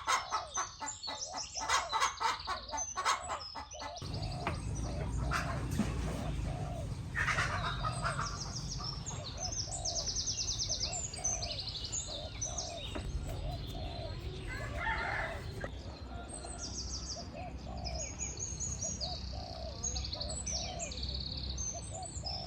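Chickens clucking in short calls repeating about every half second, with small birds chirping and trilling high above. In the first four seconds a quick series of loud, sharp sounds stands out over them.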